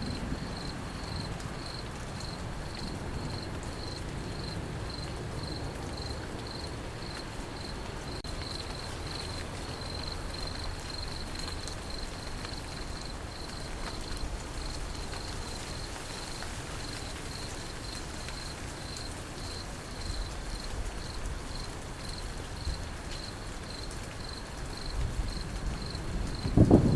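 Crickets chirping in an even, steady rhythm over a soft, steady patter of rain.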